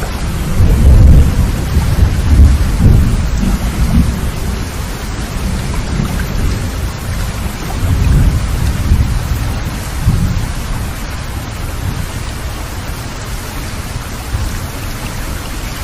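Heavy rain falling steadily in a thunderstorm, with deep rolling thunder that is loudest in the first few seconds, swells again about halfway through, then dies down under the rain.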